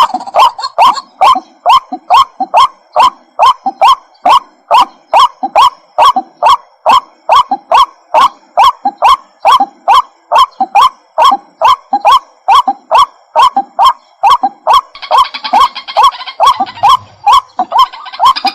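White-breasted waterhen giving its loud, repetitive 'kook-kook' call, one note about every 0.4 seconds in a steady, unbroken run, each note bending upward in pitch.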